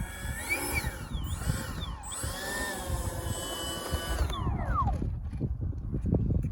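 Electric ducted-fan whine of a Freewing F-22 Raptor RC jet in flight, the pitch rising and falling several times as it passes and changes throttle, then gliding down and fading about five seconds in. Wind rumbles on the microphone throughout.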